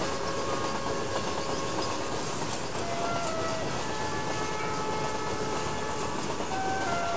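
Goods train of covered box wagons rolling past on the adjacent track: a steady rumble and rattle of wagon wheels on the rails, with scattered sharp clacks.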